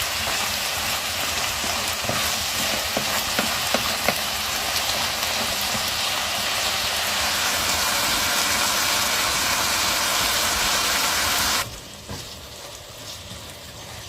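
A steady sizzling hiss with faint crackles, which cuts off suddenly near the end and leaves a much quieter background.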